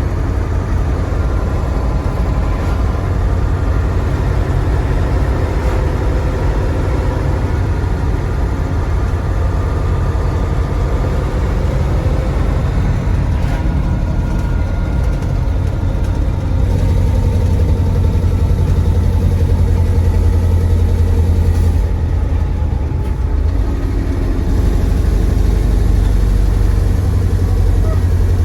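Mercedes-Benz 1729 AK truck's 15-litre OM442 V8 diesel engine running steadily, growing louder about two-thirds of the way through and again near the end.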